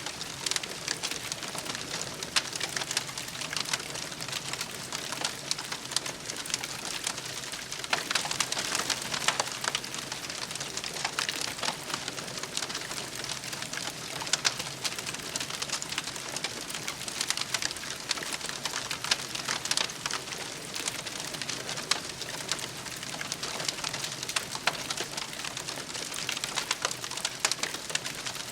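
Wood campfire crackling steadily, with frequent sharp pops and snaps over a soft hiss.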